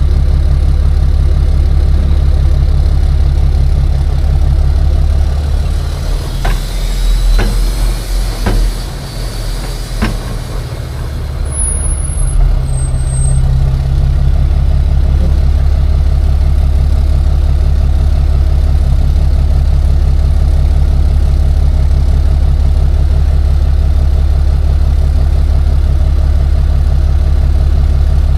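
Tow truck engine running steadily under way, a loud low drone. About six seconds in, four sharp knocks come over a few seconds as the drone dips and a faint rising whistle sounds, then the steady drone returns.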